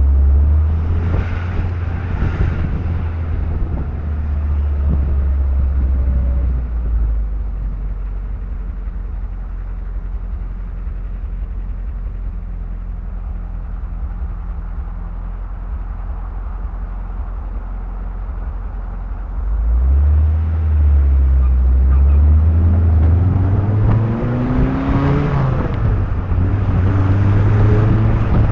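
MGB's four-cylinder engine driving with the top down, with heavy wind rumble on the microphone. It runs quieter through the middle stretch, then grows louder from about two-thirds of the way in as the car pulls away, its pitch rising as it revs up.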